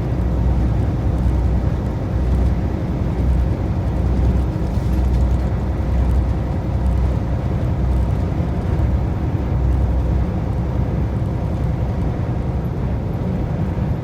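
Semi truck underway: a steady low rumble of engine and road noise that holds even throughout.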